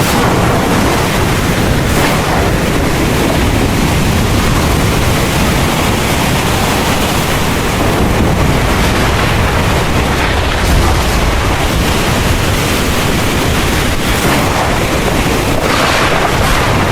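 Heavy rain pouring steadily with a low rumble of thunder underneath, swelling briefly a couple of times near the end.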